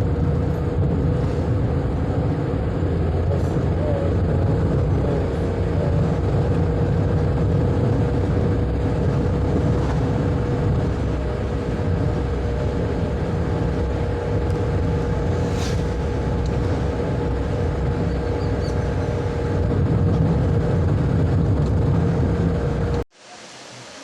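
A moving road vehicle's engine and road noise, a steady heavy rumble with a constant whine above it. It cuts off abruptly near the end, leaving a much quieter, even hiss.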